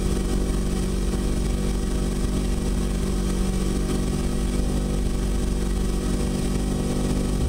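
Nissan 100NX rally car's turbocharged SR20DET four-cylinder engine idling steadily, heard from inside the stripped, roll-caged cabin.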